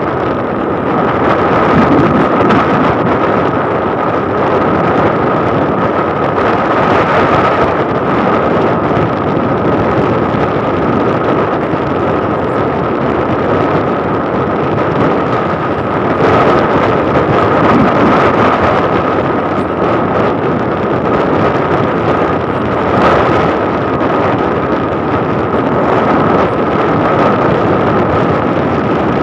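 Wind rushing over the microphone on a moving motorcycle, with engine and road noise underneath and a steady high whine throughout.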